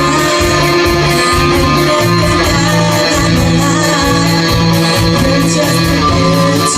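Live rock band playing, electric guitars to the fore over bass, keyboard and drums, with an even cymbal beat.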